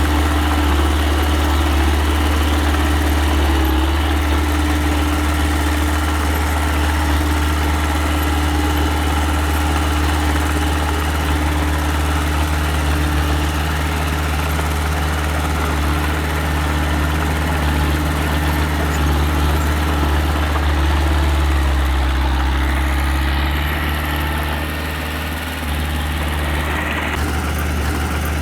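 Engine of earthmoving machinery running steadily with a low hum, easing briefly about 25 seconds in before picking back up.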